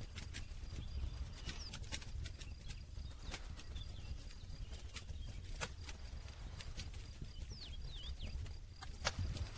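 Wood campfire crackling: irregular sharp pops and snaps from the burning wood over a steady low rumble of the flames, with one louder pop near the end.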